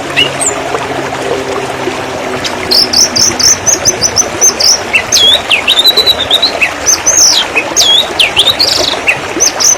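Running water with a songbird singing over it: a fast run of high chirps starts about three seconds in, followed by swooping whistled notes. A low drone is heard in the first few seconds.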